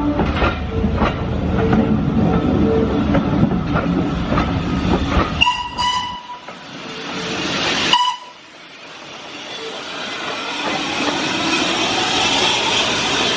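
A train running along the rails, a dense rumble with repeated clicks of the wheels over rail joints. The sound breaks off abruptly twice, at about five and eight seconds in, each time with a short high pitched note. A steady rushing noise then builds up toward the end.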